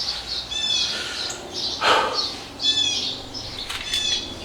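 Small birds chirping in short high bursts, three times, with a brief scuffing noise about two seconds in.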